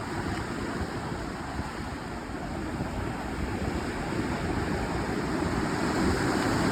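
Wind buffeting the microphone over the wash of waves, a steady rumbling noise that grows slowly louder.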